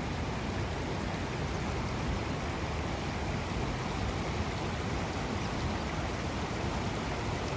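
Steady rush of water pouring over the Sompamit waterfall rapids on the Mekong, an even noise with no change.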